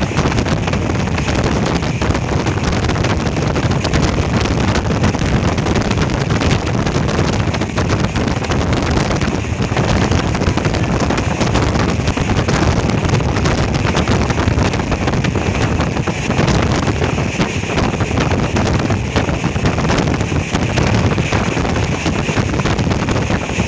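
Wind buffeting the microphone: a loud, steady rushing rumble with constant flutter and no distinct events.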